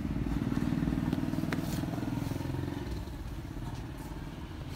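A motorcycle engine running at idle, a steady low pulsing note that eases off slightly toward the end, with a faint click about a second and a half in.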